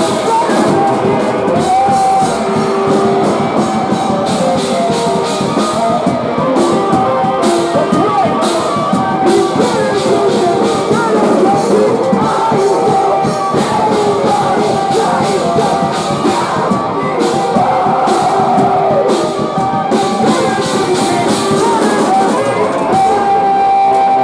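Post-hardcore band playing live and loud: guitars over steady drum and cymbal hits, with vocals.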